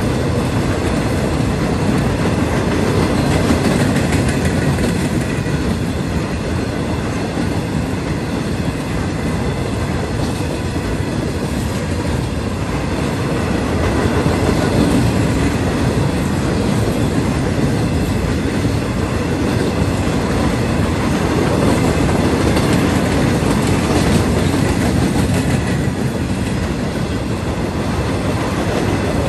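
Freight train cars rolling past steadily: continuous rumble of steel wheels on the rails with rhythmic clickety-clack.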